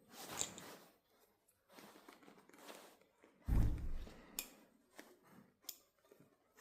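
Scraping and rustling of a balisong trainer being handled while small inserts are forced into its handle, with a heavy thump about three and a half seconds in and a few sharp clicks after it.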